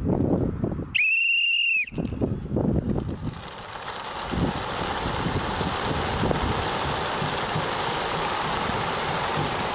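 A shrill whistle-like tone about a second in, lasting just under a second, rising slightly and then falling. It is followed by steady wind and vehicle rumble.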